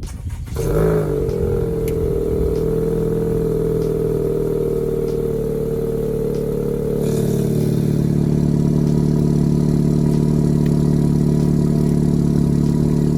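2019 Acura TLX engine cold-starting about half a second in, then idling steadily through open electric exhaust cutouts. Its tone deepens about seven seconds in.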